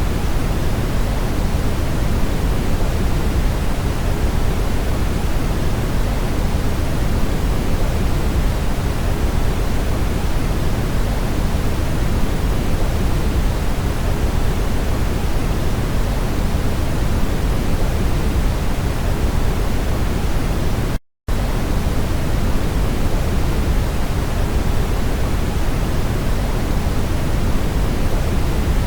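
Steady brown noise: an even, featureless rushing sound weighted toward the low end. It cuts out to silence for a fraction of a second about 21 seconds in.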